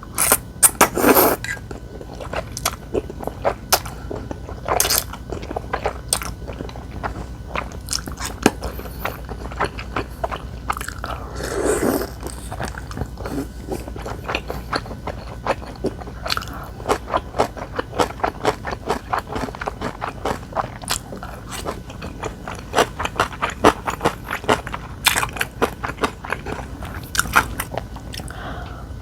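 Close-miked eating: a person biting and chewing crunchy food, with many crisp crunches that come quick and dense through the second half, and a few longer noisy sounds near the start and about twelve seconds in.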